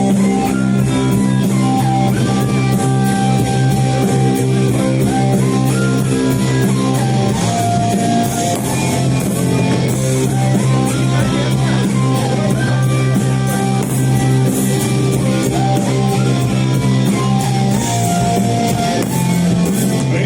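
A live rock band playing, with guitar to the fore.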